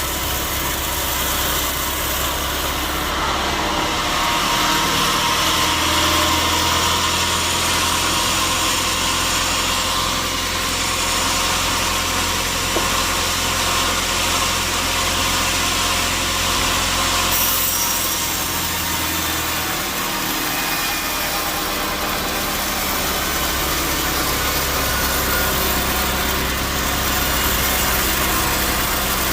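Sawmill machinery running steadily, with a saw blade cutting through wood from about three seconds in until about seventeen seconds, when the cutting noise drops away and the motor runs on.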